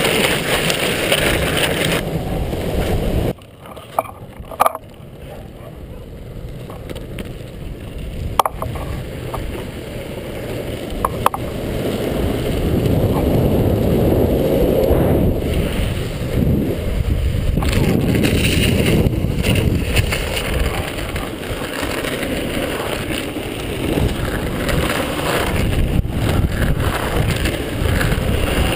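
Buttboard on giant wooden trucks rolling downhill: a steady rush of wheel and wind noise that drops off suddenly about three seconds in, then builds back up, with a few sharp clicks along the way.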